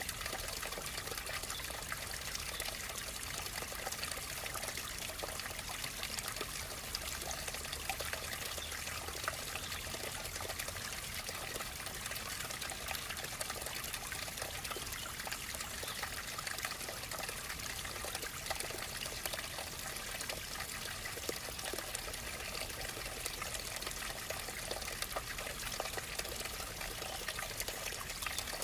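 Running water trickling and splashing steadily, with many small droplet splashes and no pauses.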